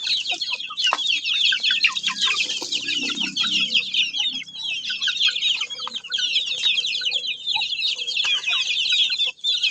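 Many birds chirping at once in a dense, unbroken chorus of rapid high calls that overlap one another.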